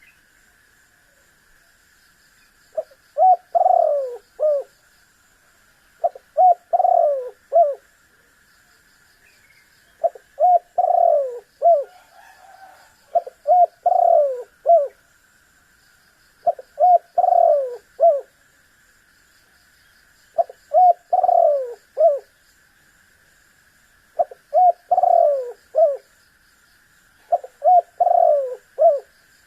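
Spotted dove (tekukur) cooing: eight phrases, each of three or four low, throaty notes, repeating about every three and a half seconds. A faint steady high hiss runs underneath.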